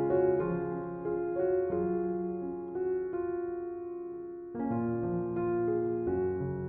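Background piano music: single notes and chords struck and left to fade, with a fresh, louder chord about four and a half seconds in.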